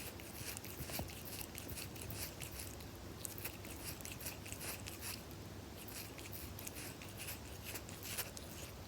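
Kitten grooming itself close to the microphone: a rapid, irregular run of crisp wet licking clicks from its tongue on fur.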